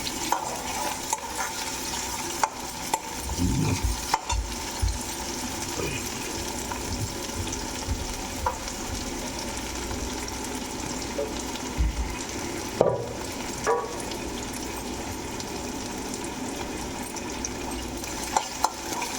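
Chopped onions sizzling steadily as they fry in oil in a pan, with a few sharp clicks and scrapes from a spoon against the pan as they are stirred. The onions are being fried until dark brown.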